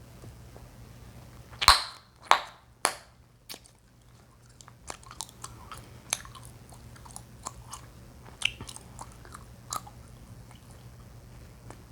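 Chewing gum popped close to the microphone: three loud pops in quick succession about two seconds in, then chewing with many smaller snaps and smacks.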